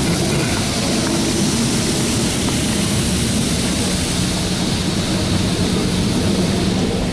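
High-pressure water jets from a Belanger Kondor KL2 touchless car wash arm spraying against the car's body during the high-pressure rinse, heard from inside the car: a loud, steady hiss of water with a low hum underneath.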